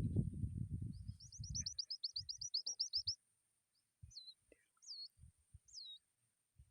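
A bird singing: a rapid trill of about fifteen short falling notes, then three separate swooping calls about a second apart. A low rumbling noise, the loudest thing, dies away in the first two seconds.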